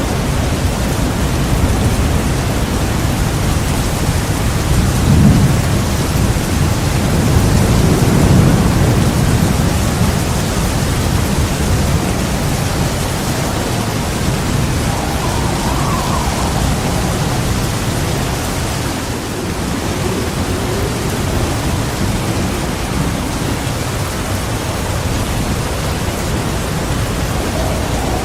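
Heavy rain pouring steadily, with thunder rumbling low and swelling about five seconds in and again around eight seconds in.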